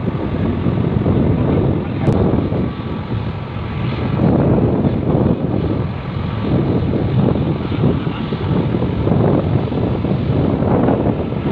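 Wind buffeting the microphone: a loud, gusty low rumble that swells and dips throughout.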